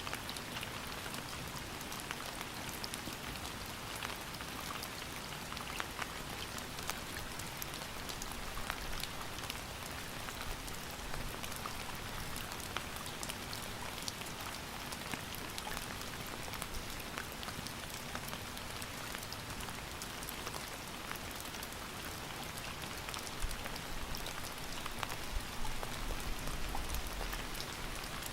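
Steady rain falling, an even hiss dotted with many sharp drop ticks, with a faint low rumble about 25 seconds in.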